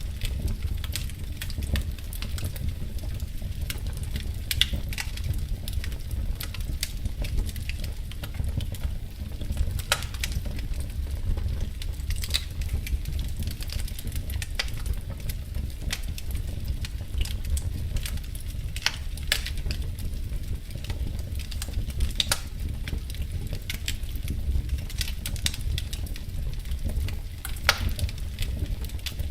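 Wood fire in a fireplace crackling: irregular sharp pops and crackles, a few every couple of seconds, over a steady low rumble.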